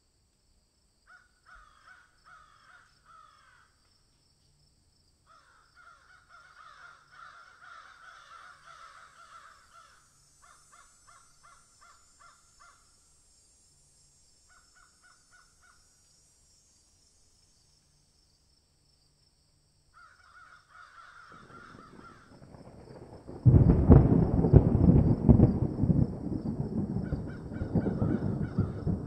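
Bird calls in several series of short, quickly repeated calls. About twenty-three seconds in, a much louder rough rumbling noise takes over.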